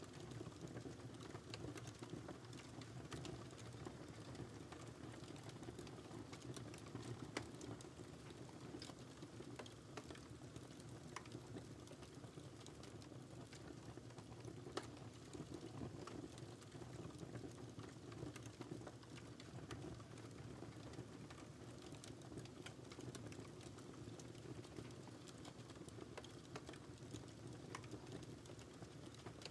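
Wood fire crackling quietly: frequent small pops and snaps scattered over a steady low hiss of burning.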